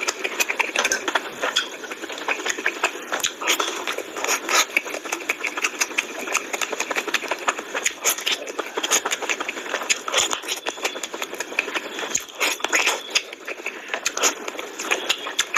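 Close-miked chewing and lip-smacking as a man eats mutton curry and meat bitten off a mutton leg piece, a dense, rapid run of irregular clicks and smacks.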